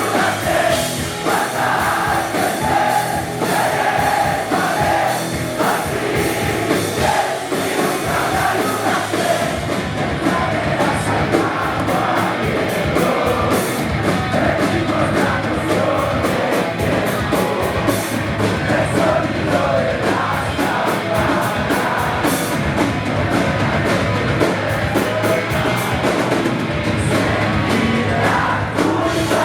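Live rock band playing a song with a singer.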